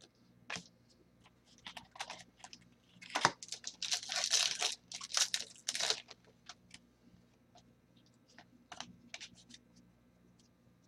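A trading card pack's wrapper being torn open and crinkled, loudest for a few seconds in the middle, with scattered sharp clicks from the cards being handled before and after.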